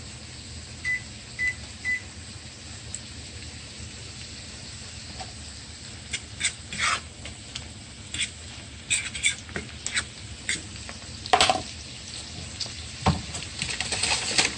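Chopped onions and garlic sizzling in melted butter and olive oil in a nonstick frying pan, a steady frying hiss. Three short electronic beeps sound about a second in. From about halfway through, a utensil clicks and scrapes against the pan as the garlic is stirred.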